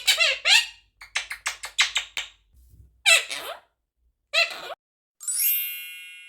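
Quaker parrot (monk parakeet) chattering in short squawks and speech-like calls, with a quick run of rapid chirps early on. About five seconds in, a bell-like chime rings and slowly fades.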